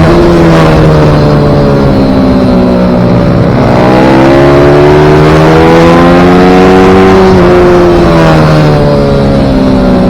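Pit bike engine racing on track, its pitch falling as it slows, rising again about four seconds in as it accelerates hard, then dropping once more near the end.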